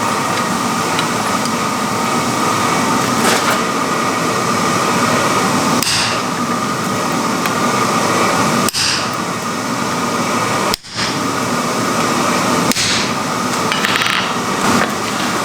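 Rapid, continuous hammering on iron at the forge, with a steady hum underneath. The hammering drops out briefly twice, about two thirds of the way in.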